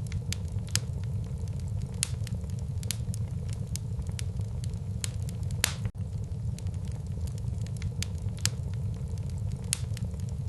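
Wood fire burning in a fireplace: irregular sharp crackles and pops over a steady low rumble of the flames, with one louder pop a little past halfway.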